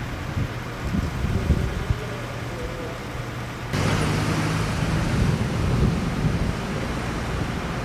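Nagoya Railroad (Meitetsu) electric train running, a steady low hum with a little rumble. About four seconds in the sound cuts abruptly to a louder, fuller running noise with a low drone.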